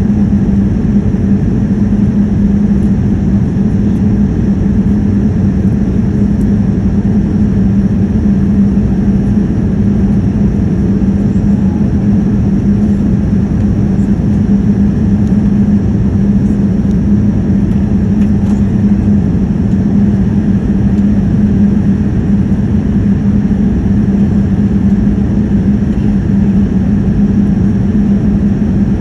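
Airliner cabin noise in flight: the engines and rushing air make a steady, loud drone with a constant low hum through it.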